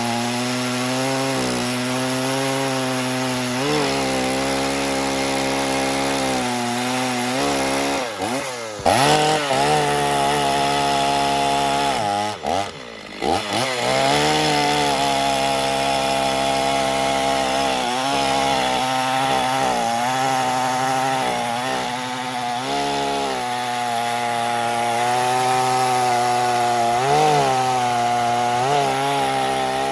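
Husqvarna 50 Rancher two-stroke chainsaw running under load while cutting through a log, its engine note steady. The note dips briefly and picks back up twice, about eight and thirteen seconds in. The operator found it the most gutless of the 50cc saws, turning about half the revs of the newer ones.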